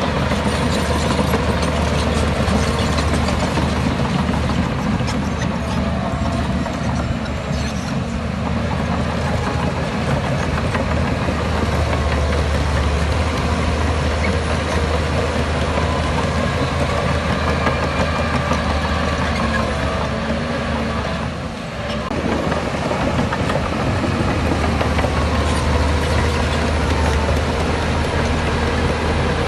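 Heavy diesel earthmoving machinery running steadily, its engine note dipping briefly about two-thirds of the way through.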